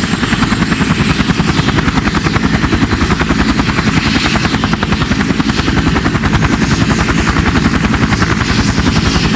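CH-47 Chinook tandem-rotor helicopter running: a steady, rapid beating of the rotor blades, with a thin high whine held over it.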